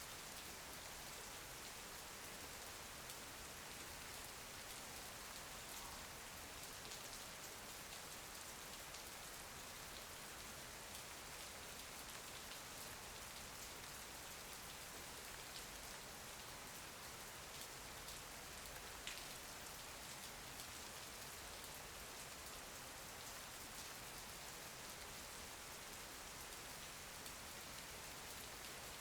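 Steady rain falling, an even hiss of drops with faint scattered ticks of single drops.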